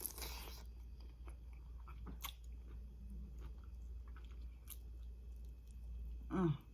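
A person chewing and biting seafood-boil food close to the microphone, with scattered small crunches and clicks, and a short vocal sound near the end.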